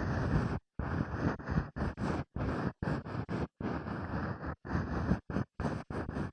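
Ear-cleaning strokes scraping and rubbing right against a microphone, in short uneven strokes about two or three a second with dead-silent gaps between them.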